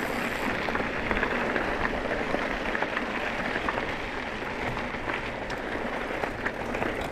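Mountain bike rolling fast downhill over gravel and dirt: a steady rush of tyre noise speckled with many small crackles and ticks, with wind rumbling on the microphone.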